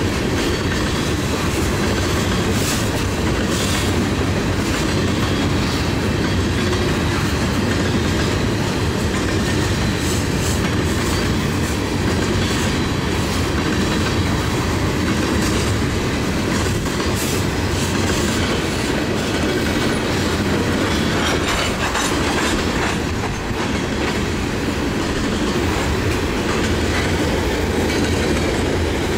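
Freight train cars rolling past in a steady rumble, with the wheels clicking over the rail joints now and then.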